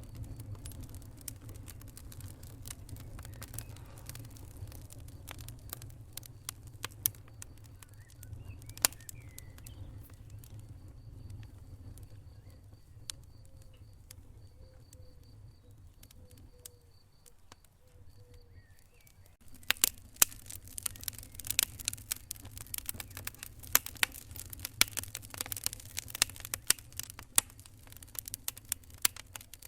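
Wood fire crackling in a fireplace: scattered sharp pops and snaps over a low steady rumble. About two-thirds of the way in, after a quieter stretch, the crackling becomes suddenly denser and louder.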